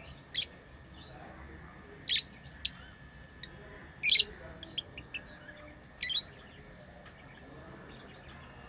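Pet lovebirds giving short, sharp, high-pitched chirps in small clusters about two seconds apart.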